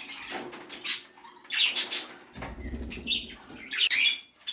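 Australian king parrot moving about, with short bursts of wing-flapping and rustling, and a dull low rumble about halfway through.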